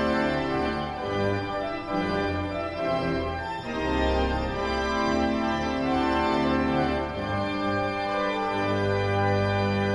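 Organ playing slow, sustained chords over held bass notes that change every second or two.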